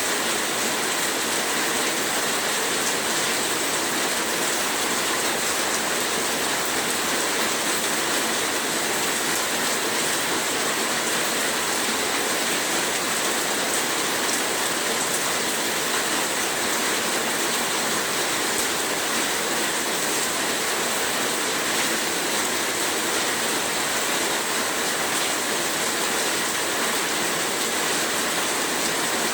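Heavy rain falling steadily, an even hiss with no distinct drops or thunder.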